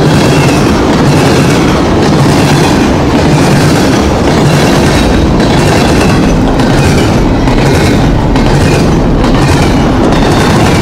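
A railroad train passing close by, its wheels rolling over the rails in a steady, dense rumble with a clickety-clack.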